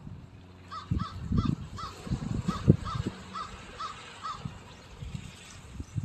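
A bird calling a quick run of about ten short, evenly spaced notes over a few seconds, with low, uneven rumbling underneath.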